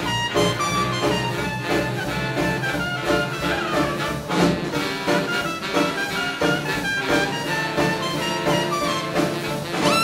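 A live big band playing swing jazz, with trumpets and trombones over a steady beat.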